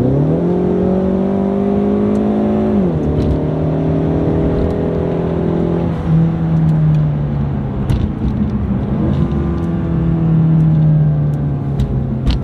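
Car engine under acceleration, its pitch climbing, then dropping sharply about three seconds in as the automatic transmission upshifts, before settling into a steady drone. The gearbox is shifting normally.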